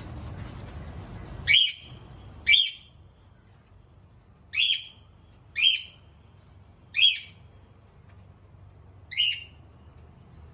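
Cockatiel calling: six short, loud, shrill calls, spaced irregularly a second or two apart.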